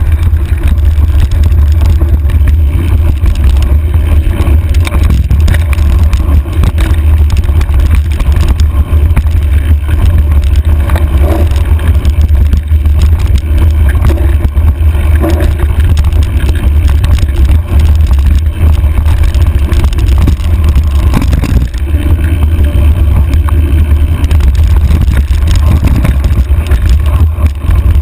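Wind buffeting a handlebar-mounted camera's microphone on a mountain bike riding fast down a dirt trail, a loud continuous rumble with the rattle and knocks of the bike over rough ground.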